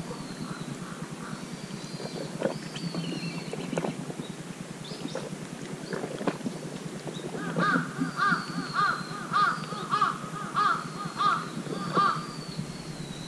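A bird calling in a run of about ten short, evenly spaced calls in the second half, two or three a second, over a steady low background noise, with fainter high-pitched calls now and then.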